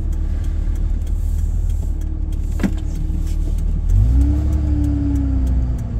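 Steady low engine and road rumble inside a moving car. About four seconds in the rumble swells and an engine tone rises quickly, then slowly sinks, as the car pulls away.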